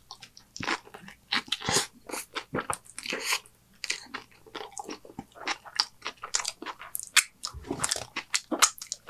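A mouthful of cheeseburger being bitten and chewed close to the microphone: an irregular run of wet smacks and soft crunches.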